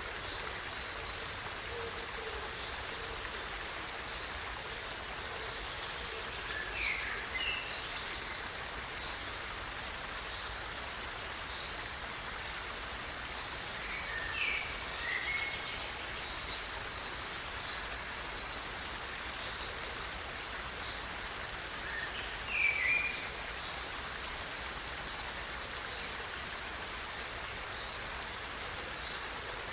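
Steady hiss of running water, with a bird calling in short chirped phrases three times, roughly seven to eight seconds apart, the last call the loudest.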